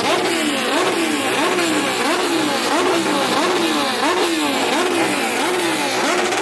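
A superbike's engine is revved over and over with quick throttle blips, the pitch climbing and dropping back about ten times in a row.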